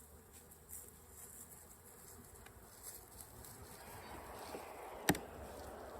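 Honeybees buzzing around an open hive, growing louder in the second half, with one sharp knock about five seconds in.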